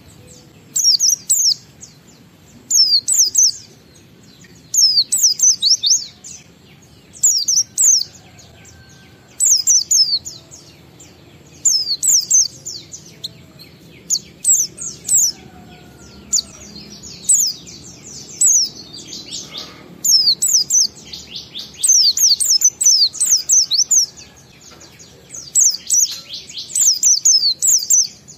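White-eye (pleci) singing in its fast 'ngalas' style: short, loud phrases of rapid, high, falling chirps, repeated every second or two.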